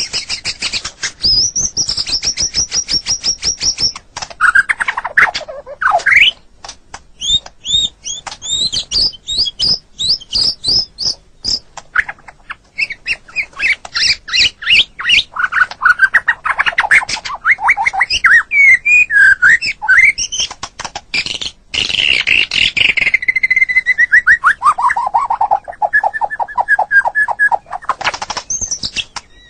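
White-rumped shama (murai batu) singing a long, varied song: fast runs of repeated high whistled notes and chattering trills, slurred phrases, and near the end a long series of notes that steps down in pitch.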